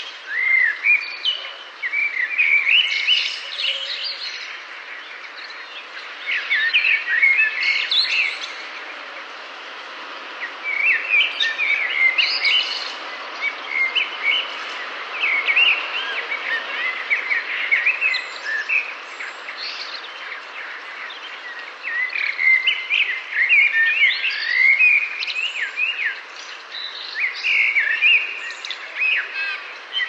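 Several birds singing and chirping in busy bursts of short, quick notes, with brief lulls, over a steady background hiss.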